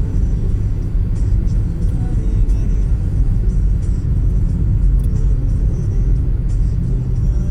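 Steady low rumble with faint, high, short chirps or ticks over it.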